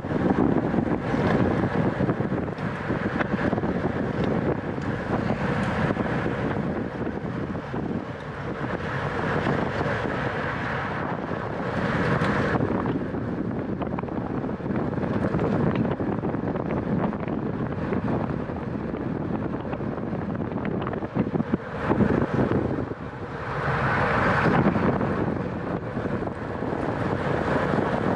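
Wind rushing over the microphone of a camera riding along in a bicycle race at speed. It rises and falls, with louder surges about twelve and twenty-four seconds in.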